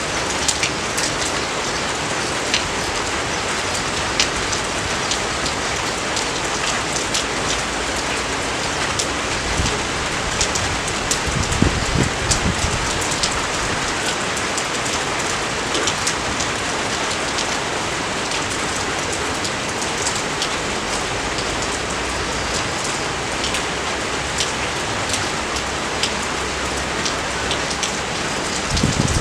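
Steady rain falling, a dense even hiss with many sharp individual drop ticks. A low rumble swells briefly about twelve seconds in and again near the end.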